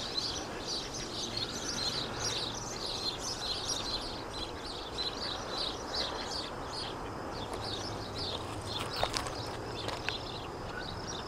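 A flock of small birds chirping and twittering continuously, many short high calls overlapping.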